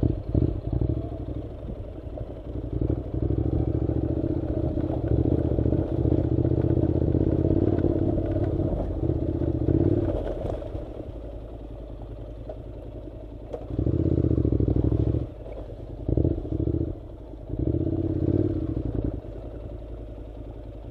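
Honda NC700's 670 cc parallel-twin engine pulling the motorcycle along a dirt track. It holds a steady pull for several seconds, eases off, then is opened up in three short bursts of throttle near the end.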